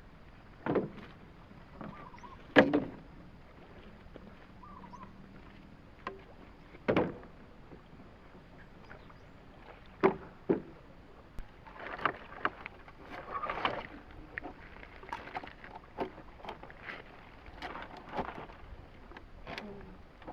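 Irregular knocks and thuds: several loud single knocks spaced seconds apart, then a denser run of lighter knocks and clatter in the second half.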